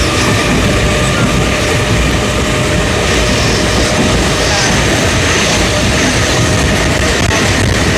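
Mumbai suburban local train running on the line: a loud, steady rumble of wheels on rails, with faint steady tones over it.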